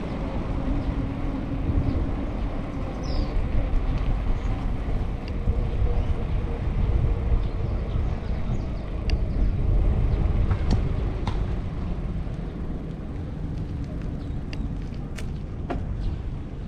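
Street traffic heard from a moving bicycle: a steady low rumble of passing vehicles and outdoor noise, with a few faint ticks.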